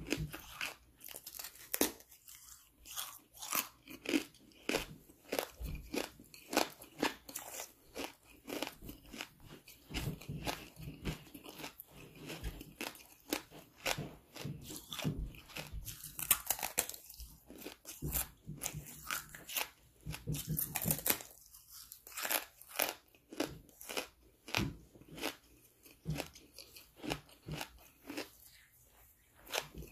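Hard charcoal being bitten and chewed close to the microphone: repeated sharp, brittle crunches, a few a second, with brief pauses.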